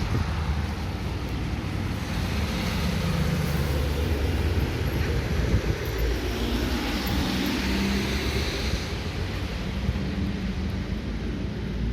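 Steady outdoor noise: a low rumble with a hiss over it.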